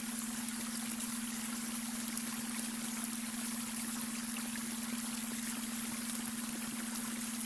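Babbling brook: a steady rush and trickle of flowing water. Under it runs a steady low hum, the added beta-wave brainwave tone.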